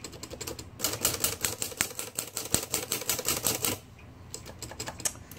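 Olivetti portable typewriter mechanism clattering: a quick, dense run of sharp mechanical clicks that starts about a second in and stops about a second before the end.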